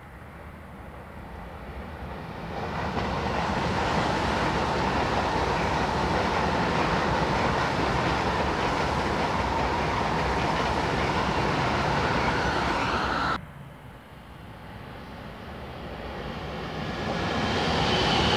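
ICE high-speed train passing through a station at speed, its wheel and air noise swelling over the first few seconds to a steady rush with a faint whine. The sound cuts off abruptly about two-thirds of the way in, followed by a red double-deck regional train drawing near, its rail noise building toward the end.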